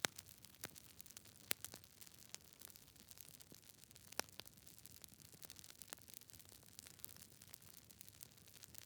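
Wood fire crackling: irregular sharp pops and snaps over a faint steady hiss, the loudest pops about one and a half and four seconds in.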